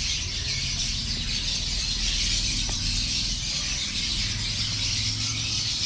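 Dense, continuous high-pitched chatter of many caged lovebirds in an aviary, with a low rumble underneath.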